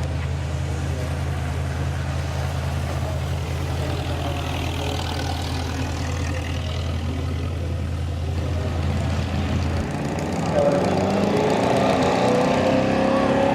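Vintage race car engine idling with a steady low hum; about ten seconds in, an engine revs up, rising in pitch and growing louder.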